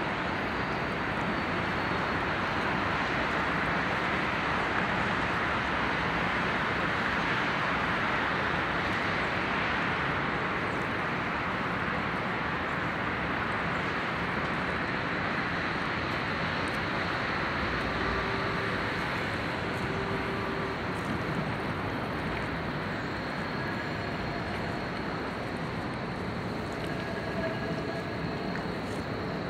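Electric train running in a station hall: a steady rushing noise, loudest over the first ten seconds or so and then slowly easing. A few short, faint tones come about two-thirds of the way through.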